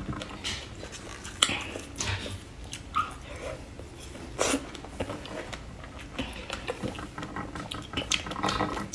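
Close-miked chewing: a mouthful of food chewed with the lips closed, giving irregular wet smacks and mouth clicks.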